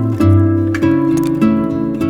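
Instrumental Christmas carol played on acoustic guitar, with plucked notes about every half second over a low bass line.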